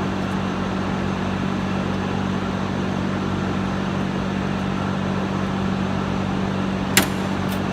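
Steady low machine hum with a constant drone, and one sharp click about seven seconds in.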